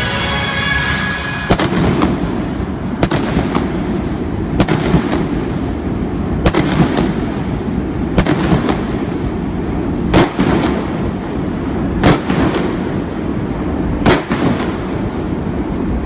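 Victory fireworks going off one after another: about eight sharp bangs, one every two seconds or so, each trailing off in an echo, over a steady crowd din. Music playing at the start breaks off as the first bang goes off.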